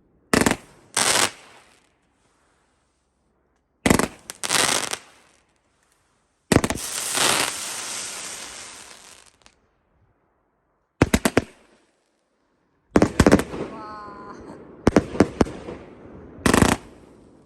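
New Year fireworks going off: a string of separate sharp bangs, one followed by a few seconds of fading crackle, and a quick run of bangs a little after the middle.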